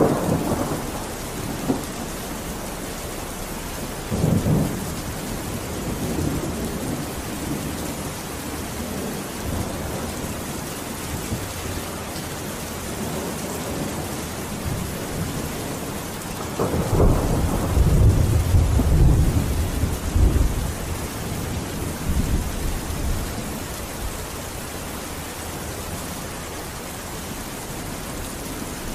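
Steady heavy rain hissing, with low rolling thunder: short rumbles near the start and about four seconds in, and a longer, louder roll a little past the middle.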